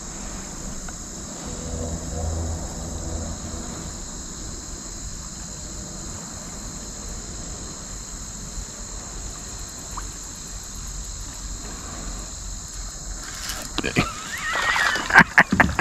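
A steady, high-pitched chorus of crickets and other insects. Near the end come a few sharp knocks and splashes of water against the kayak.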